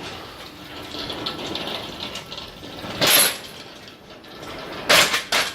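Mechanical workshop noise from tools on the car: a rasping, ratchet-like sound that builds over the first couple of seconds, then a sharp loud knock about three seconds in and another near the end.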